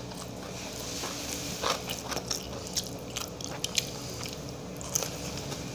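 Close-up biting and chewing of a crisp deep-fried spring-onion-flower pakora: irregular sharp crunches and mouth clicks, most of them from about a second and a half in until near the end.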